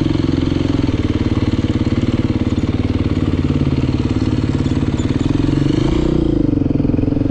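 Dirt bike engine running steadily at low speed, rising briefly in pitch about six seconds in and then easing back.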